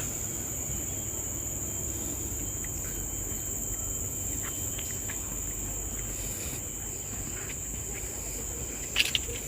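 Steady, high-pitched drone of forest insects such as crickets or cicadas, one unbroken tone, with a couple of sharp clicks near the end.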